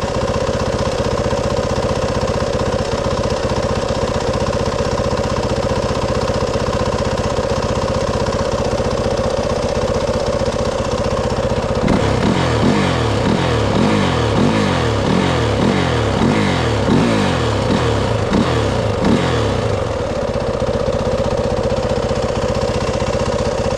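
Motorcycle engine idling steadily. About halfway through it is given a quick series of throttle blips, roughly a dozen rises and falls in pitch over eight seconds, then settles back to idle.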